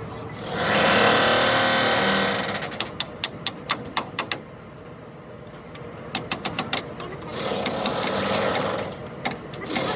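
Workshop bodywork sounds: two loud bursts of hissing, and between them runs of quick, sharp knocks that come several to a second in uneven clusters.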